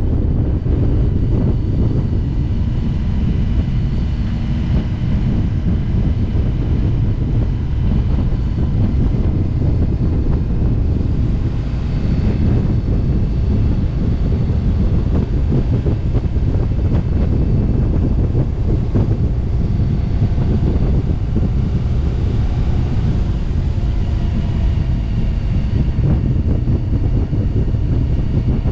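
Motorcycle cruising at steady road speed, its engine running under a constant rumble of wind buffeting the microphone.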